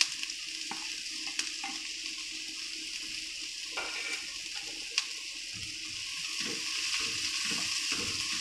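Chicken and vegetables sizzling steadily in a non-stick wok over a gas flame, with a few sharp clicks. From about halfway, a spatula stirs and scrapes through the food in repeated strokes.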